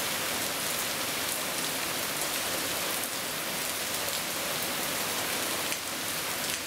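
Heavy rain falling steadily on pavement and a waterlogged lawn, with an occasional louder drop close by.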